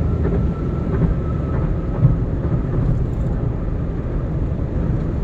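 Car driving at speed: steady low rumble of tyres on the road and the engine, with a faint high steady whine above it.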